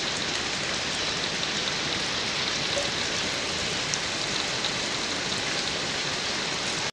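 Steady, even hiss of water, like heavy rain.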